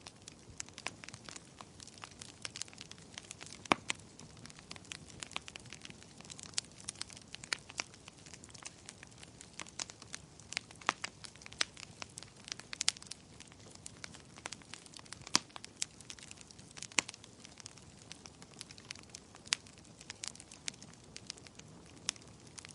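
Fire crackling in a fireplace: irregular sharp pops and snaps, several a second, over a soft hiss.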